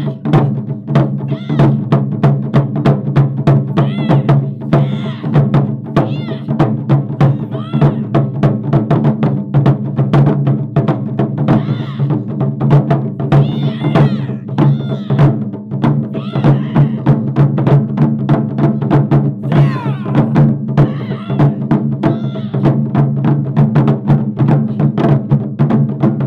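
Japanese taiko drum ensemble playing a fast, continuous rhythm of many strikes a second over the low ringing of the big drums. Wavering high-pitched tones sound above the drums at intervals.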